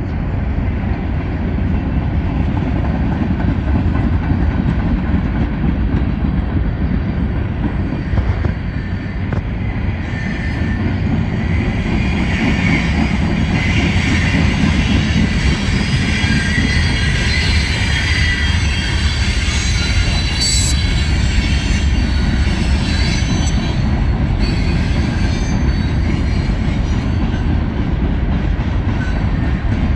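Norfolk Southern freight train's cars rolling past: a steady, loud rumble of steel wheels on rail. A higher-pitched wheel squeal rides over it for several seconds in the middle.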